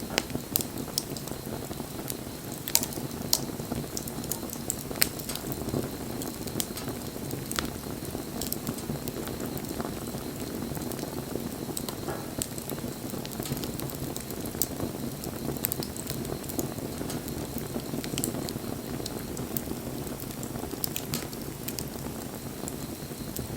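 Wood bonfire burning: a steady low rush of flames with sharp crackles and pops from the burning wood, the loudest snaps in the first few seconds.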